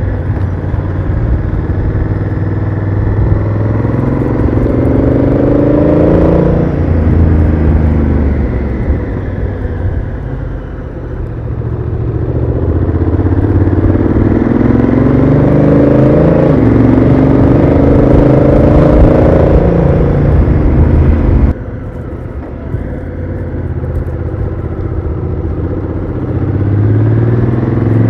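Honda Africa Twin CRF1000L's parallel-twin engine through its stock exhaust, heard on board while riding. The engine note twice climbs under acceleration and steps down at a gear change of the DCT automatic gearbox. About two-thirds of the way through, the sound drops suddenly and the engine runs on more quietly.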